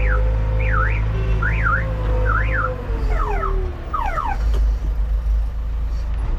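Heavy diesel machinery running with a steady low rumble, under a warbling electronic siren-like alarm that sweeps up and down about twice a second. Near the middle the alarm changes to quicker falling sweeps, then stops a little past four seconds while the engine runs on.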